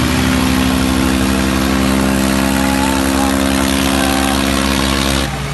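Mahindra tractor's diesel engine running at a steady speed, its note changing abruptly just before the end.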